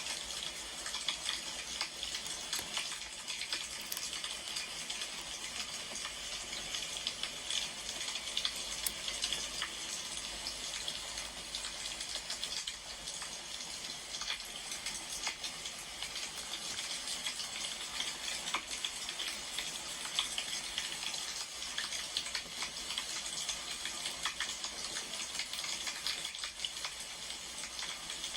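Wood fire burning, a steady hiss with many small, irregular crackles and pops.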